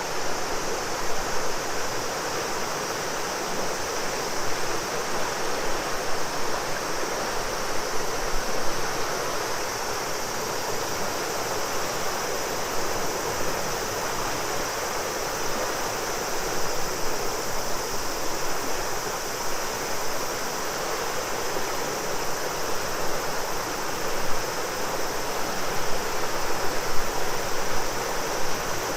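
River water flowing steadily, with a chorus of cicadas singing a steady high drone over it.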